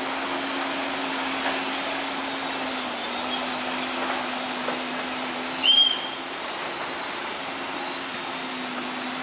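Heavy construction machinery running steadily, a constant engine drone with a steady hum. A short, loud, high squeal cuts in a little past halfway through.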